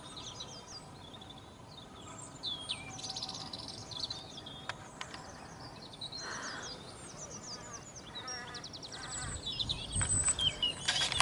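Several birds singing and calling at once in a dawn chorus: many short chirps, sweeping whistles and fast trills overlapping. Rustling with low thumps comes in near the end.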